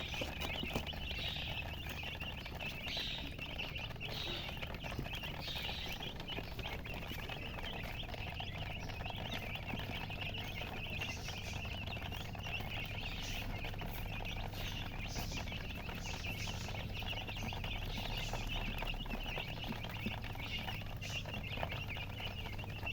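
Many newly hatched chicks chirping loudly and continuously, their high peeps overlapping into a steady chorus, over a low steady hum.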